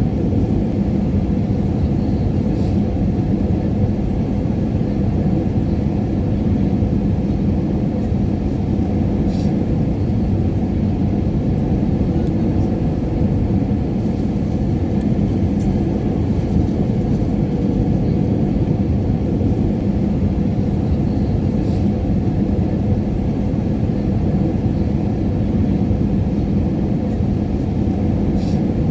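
Airliner cabin noise in flight: a steady low rumble with an even hum, unchanging throughout, with a few faint clicks.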